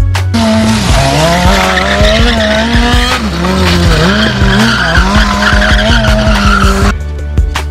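A car's tyres screeching in a burnout or skid, with a pitched engine note that wavers up and down, lasting about six and a half seconds and cutting off sharply, over background music with a steady beat.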